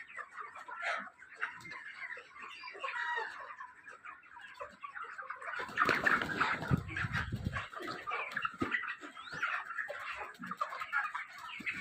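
A flock of 29-day-old broiler chickens chirping and clucking, many short overlapping calls. A louder, rougher noise rises about six seconds in and lasts over a second.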